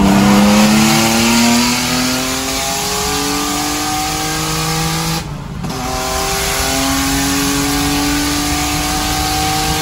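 Car engine accelerating with the revs climbing steadily, a brief break about five seconds in, then climbing again, as if shifting up a gear.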